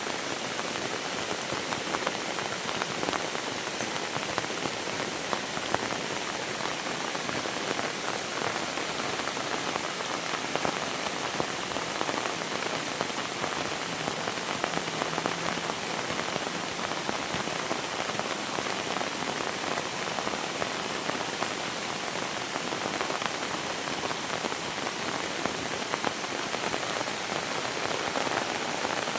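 Heavy rain falling steadily, an even hiss with many scattered louder drop splashes.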